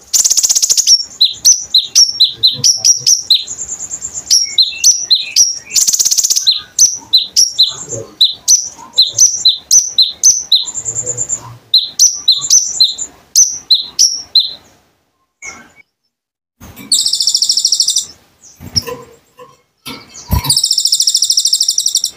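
A konin (kolibri ninja), a sunbird, singing vigorously: rapid strings of high, sharp chirps broken by short buzzing trills. It pauses briefly about two-thirds of the way through, then gives two longer buzzing trills near the end.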